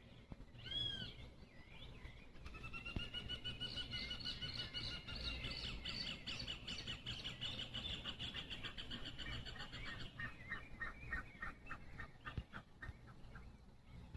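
A bird singing: a short arched call about a second in, then a long, rapid trill of repeated notes lasting several seconds, which turns into a faster, lower run of pulses before stopping near the end.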